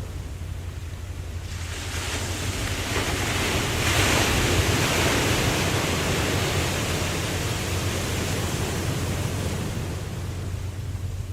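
Ocean wave surging in and washing out: the rush builds about a second and a half in, is loudest around four to five seconds, then slowly fades, over a steady low rumble.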